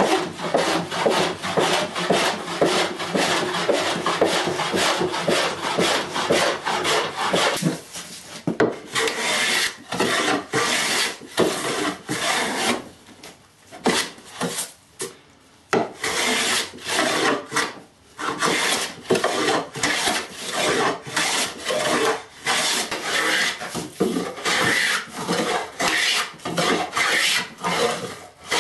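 A hand tool scraping across wood in repeated strokes. The strokes run almost continuously for the first several seconds, then come separately, a little over one a second, with a brief lull near the middle.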